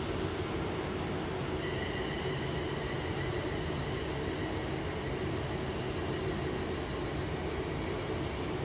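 Passenger train pulling away from a station platform, a steady rumble of the train moving off with a thin, steady high whine that joins about a second and a half in.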